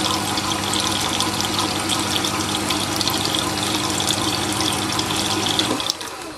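Jet water-cooled slow-speed sharpening machine running: a steady motor hum with water splashing and trickling as the grinding stone turns through its water reservoir, soaking up water. The machine stops about six seconds in.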